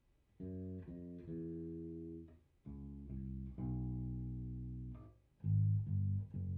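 Electric bass guitar played through a Fender Rumble 100 V3 bass combo amp, tuned a half step down. It plays a short phrase of about eight or nine plucked notes after a brief pause, with a louder cluster of quick notes near the end.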